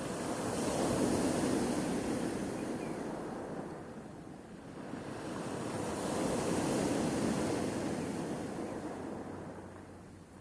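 Sea waves breaking and washing on the shore, swelling and falling away about every six seconds.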